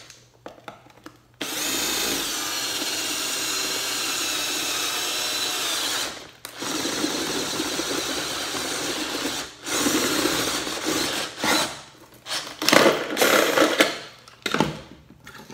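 Electric drill boring a hole through a vintage camera's metal body. It runs steadily for about four seconds, stops briefly, runs again, then goes in shorter bursts with a few knocks near the end.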